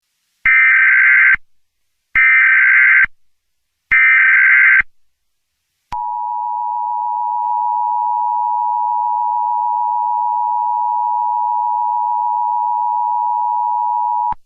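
Emergency Alert System tones: three short SAME header data bursts, each about a second long with a short gap between them, then the steady two-tone EAS attention signal held for about eight seconds, announcing an incoming alert.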